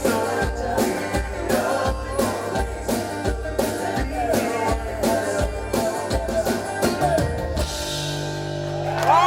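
Live folk-rock band playing the final bars of a song, with drum kit and stringed instruments over a steady driving beat. Near the end the band stops on a held final chord, and crowd cheering starts to rise just at the close.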